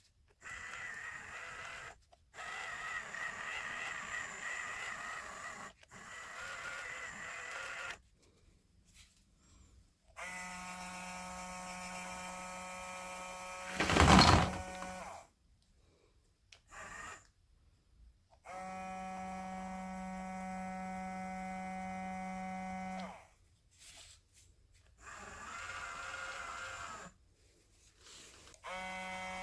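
A small battery-powered electric motor running with a steady buzzing hum in several bursts of a few seconds each, starting and stopping abruptly as it is switched on and off. A single sharp knock partway through is the loudest sound.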